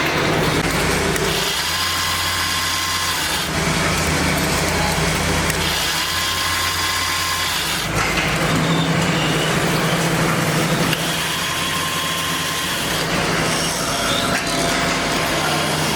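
Workshop machinery running with a steady hum, while a power tool works in passes: about every four to five seconds a higher whine comes in for about two seconds and then drops away.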